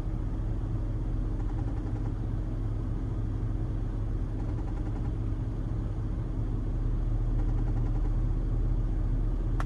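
Vehicle engine idling, heard from inside the cabin as a steady low hum.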